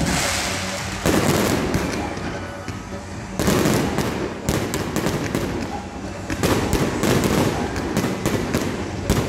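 Aerial fireworks shells bursting overhead one after another, several loud bangs a second or two apart, each trailing off into a rumbling crackle.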